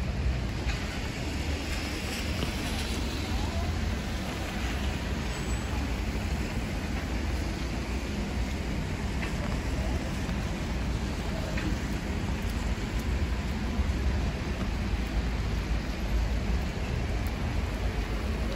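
Steady rain and city street noise: an even hiss of rain with a constant low rumble of traffic.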